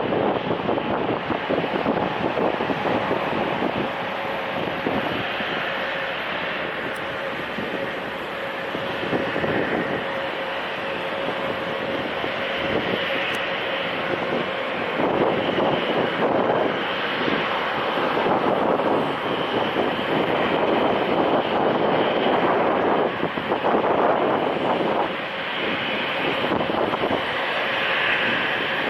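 Airliner taking off, its engines at takeoff power: a steady, crackling roar that swells and eases, with a faint steady whine.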